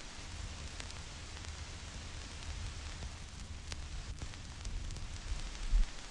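Vinyl record surface noise: a steady hiss with scattered crackles and pops as the stylus runs in the groove, and a brief low thump near the end.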